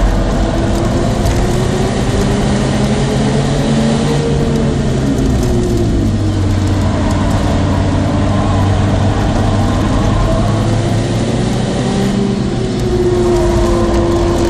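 Citroën DS3's engine under hard track driving, heard from inside the cabin. Its pitch rises and falls several times as it accelerates and lifts through the corners, over steady road noise.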